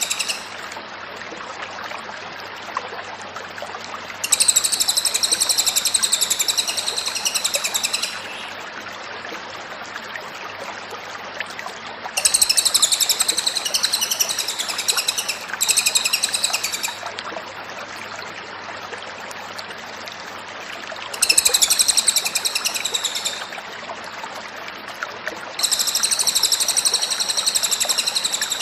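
Cililin songbird singing energetically in repeated phrases of rapid, high chattering notes, each phrase lasting a few seconds with short pauses between, over a steady background hiss.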